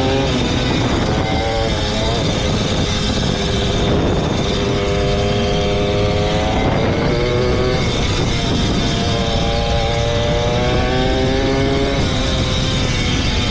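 Suzuki JR80 two-stroke dirt bike engine revving hard under way, its pitch climbing and then dropping several times as it accelerates and shifts through the gears.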